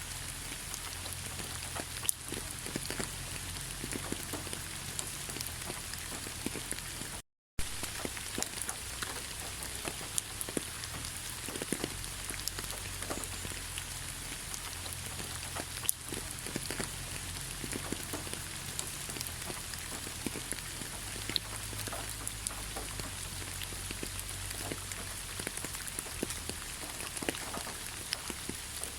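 Steady rain falling through a pine forest canopy, with many individual drops striking close by. The sound cuts out completely for a moment about seven seconds in.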